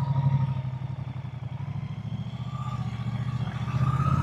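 Moto Guzzi V-twin motorcycle riding at low speed, its exhaust pulsing steadily; the engine eases off in the middle and picks up again near the end.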